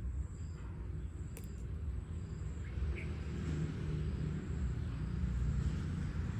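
Outdoor ambience: a steady low rumble with a faint, steady high-pitched whine, a single click about a second and a half in, and a brief chirp about three seconds in.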